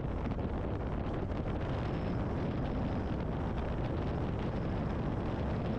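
Steady wind rush and the low hum of a BMW R1250GS Adventure's boxer-twin engine while riding, heard through a helmet intercom microphone.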